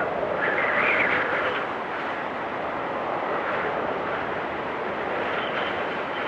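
Storm wind blowing steadily, with a louder whistling gust in the first second and a half that then eases. A faint high whistle comes in near the end.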